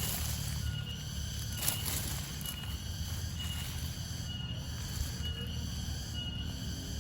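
Outdoor ambience: a steady low wind rumble on the microphone, with a short high chirp repeating about once a second and a sharp rustle about two seconds in.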